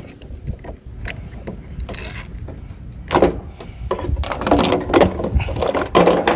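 Irregular mechanical clicks, knocks and scraping as parts of discarded scrap are worked loose by hand, growing busier about halfway through, over a low rumble.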